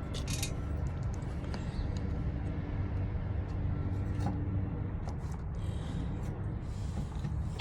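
Steady low background hum with a few faint clicks and taps of hands working at the fuel pump's line fittings, and a sharper click at the very end.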